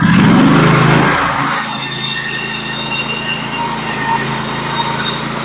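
Norwood HD36v2 portable bandsaw mill's engine throttling up suddenly, its pitch rising over the first second or so, then running steadily under load as the band blade cuts through the log, with a high thin whine over the engine.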